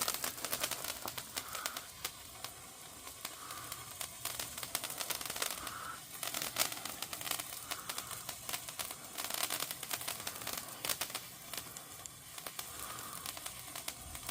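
Crackling firework effect: a dense, irregular stream of small sharp pops and snaps.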